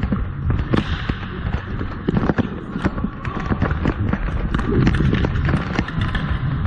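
Ball-hockey play on a dek court: many quick, irregular clacks and knocks of sticks, ball and shoes on the plastic surface, over a low rumble.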